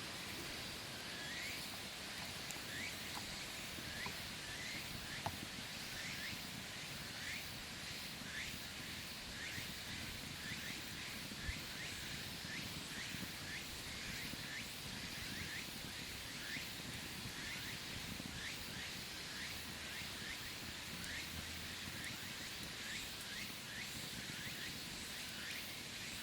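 Outdoor ambience with an animal repeating a short rising chirp about one and a half times a second over a steady hiss, and two brief sharp clicks.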